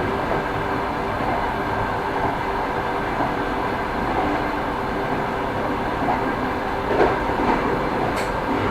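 Railway train running along the track: a steady rumble with the clatter of wheels over the rails, one sharper knock about seven seconds in and a brief high squeak near the end.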